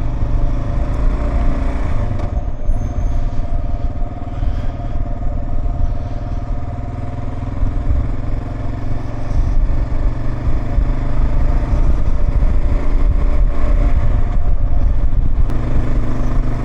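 Kawasaki KLR 650's single-cylinder four-stroke engine running under way on the road, with steady engine tones over a heavy low rumble. It gets a little louder about eleven seconds in.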